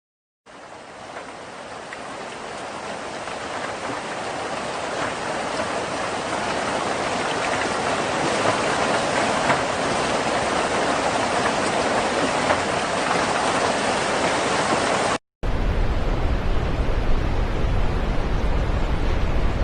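Steady rain hiss that fades in over several seconds. After a brief cut, more rain follows with a strong deep rumble underneath.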